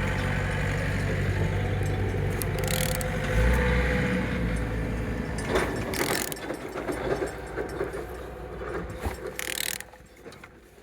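Removed 22DT engine being turned over by hand at the crankshaft: mechanical clicking and ratcheting, with a steady low hum in the first few seconds. It turns freely, and it is a check of rotation and compression.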